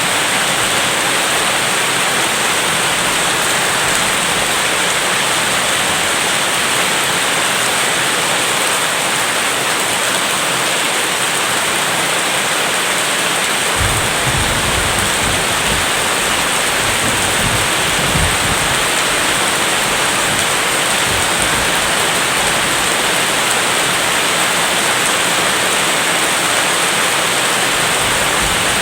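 Steady heavy rain hissing, with a low rumble of distant thunder for several seconds about halfway through.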